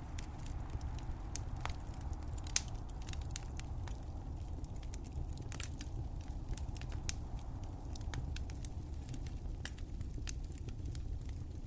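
Wood fire crackling: irregular sharp pops and snaps over a steady low rumble, with one louder pop about two and a half seconds in.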